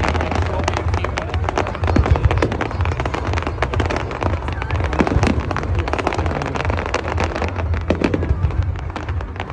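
Fireworks display: a dense, continuous barrage of bangs and crackling pops, many a second, over a steady low rumble.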